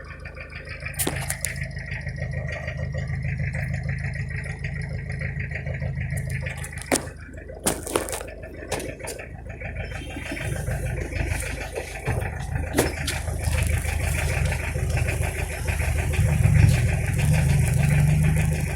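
Toyota Corolla's 1C four-cylinder diesel engine running with a steady low rumble, growing louder about halfway through and again near the end. A few sharp clicks or knocks sound over it in the first half.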